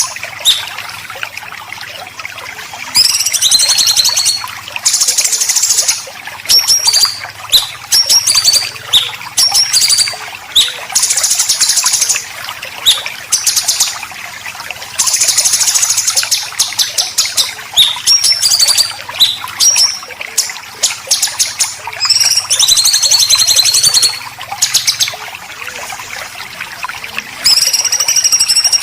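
White-rumped shama and greater green leafbird song made of harsh, rapid rattling 'besetan' phrases, each lasting one to two seconds, alternating with short sharp whistled notes, over a steady hiss.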